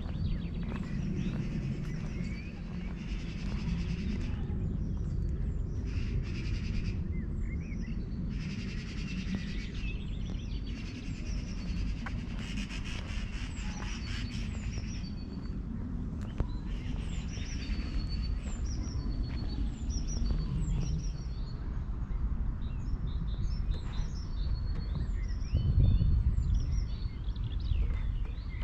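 Small birds chirping and singing, with many short high calls and quick sweeps that grow thicker through the second half. A steady low rumble runs underneath.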